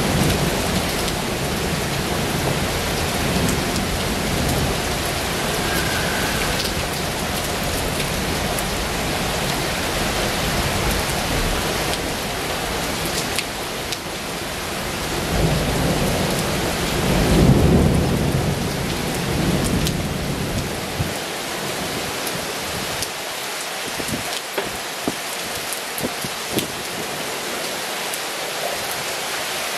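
Heavy rain falling steadily, an even hiss of rain on surfaces. About halfway through a low rumble swells up and fades away, and near the end a few close drips tap sharply.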